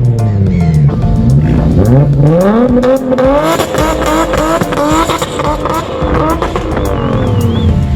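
Car engine being revved hard, the revs rising and falling several times, climbing highest in the middle before dropping away near the end.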